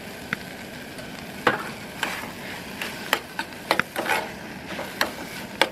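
Mushrooms, kimchi and onions sizzling in oil in a stainless saucepan on a gas camp stove, with a utensil clicking and scraping against the pan at irregular intervals as the mix is stirred.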